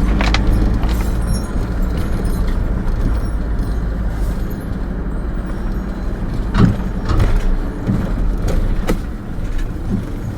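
Van engine running steadily under load while driving, heard from inside the cab along with road noise. A few sharp knocks and rattles come through, the clearest around six to nine seconds in.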